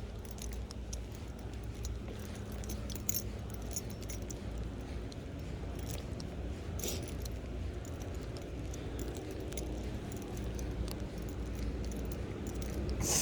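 Keys jingling on a ring as a door is checked, with a few sharp clinks, over a steady low hum.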